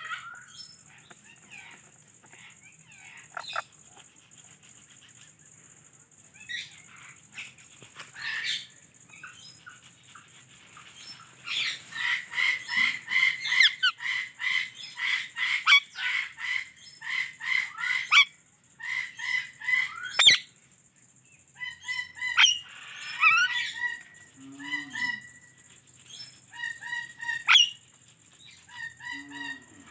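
Indian ringneck parakeet chirping and calling: a fast run of sharp, evenly repeated notes from about twelve to eighteen seconds in, then scattered shorter calls.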